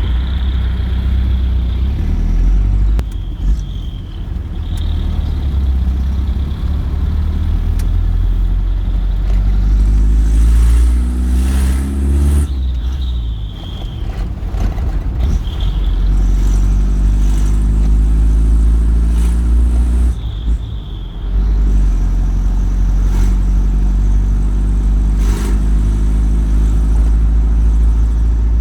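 Mitsubishi Fuso New Canter truck's diesel engine running through an aftermarket single-outlet muffler on its straight exhaust pipe, heard from inside the cab while driving. The engine note rises as the truck accelerates through the gears and drops at each shift, about twelve and twenty seconds in.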